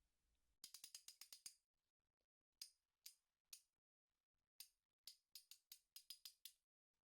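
Faint ratchet clicks from a socket wrench: a quick run of clicks, then a few single clicks, then another quick run.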